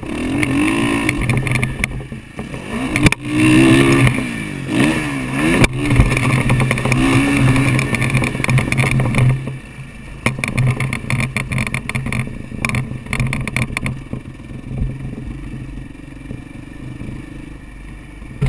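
Motocross dirt bike engine heard from a helmet-mounted camera, revving up and down repeatedly as it is ridden around the track, with knocks and rattles from the bumps. About nine seconds in it drops to a quieter, steadier run.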